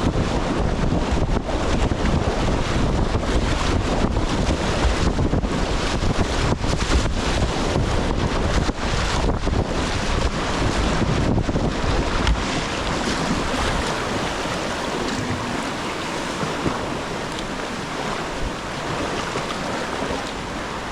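Rushing whitewater of a river rapid heard from a kayak, with short splashes and wind buffeting the microphone. The buffeting and splashes ease off about halfway through, leaving a steady hiss of moving water.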